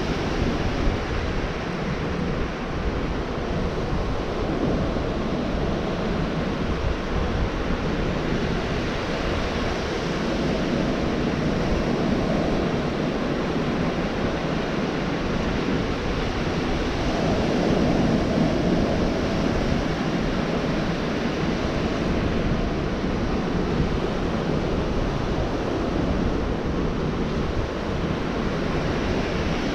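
Gulf surf washing ashore in a continuous rush, swelling a little twice as waves break, with wind buffeting the microphone.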